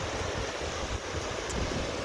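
Wind buffeting a phone's microphone in uneven low gusts, over the steady wash of ocean surf.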